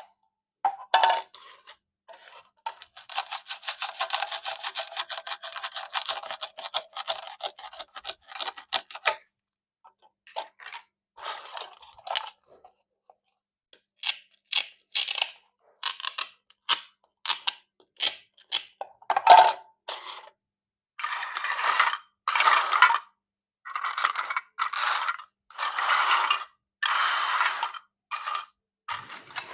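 Plastic toy fruit being cut with a knife. A long run of fast rattling clicks comes a few seconds in, then separate sharp clicks, then a series of rasping scrapes about one a second near the end.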